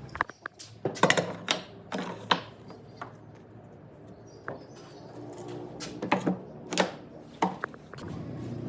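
Irregular sharp knocks and clicks, about a dozen in two clusters, of tools and workpieces being handled in a woodworking shop.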